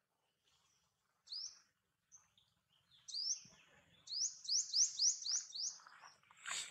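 A bird singing high, rising whistled notes: a single note, then another, then a quick run of about seven rising notes, some four a second.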